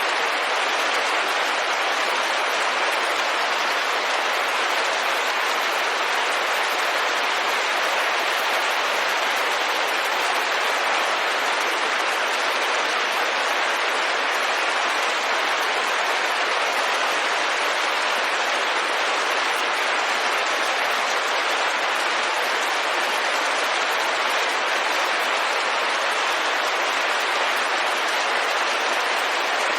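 Steady rain on a window: an even, unbroken hiss with no single drops or pauses standing out.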